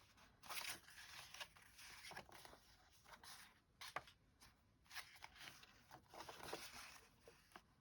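Faint, scattered rustling of paper scraps and magazine pages being handled, with a few light ticks.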